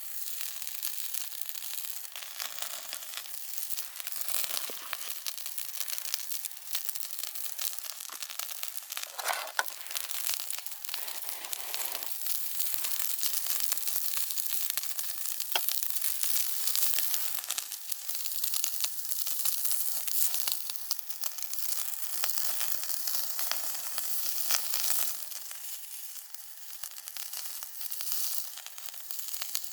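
Food frying in a pan over a campfire: a steady sizzle with many small crackling pops.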